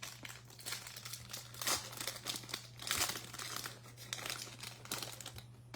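Foil trading-card pack being torn open and its wrapper crinkled, a busy crackling that peaks a couple of times.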